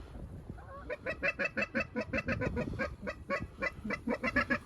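Canada geese honking: a rapid run of short, clipped honks, about six or seven a second with a brief break midway, starting about a second in.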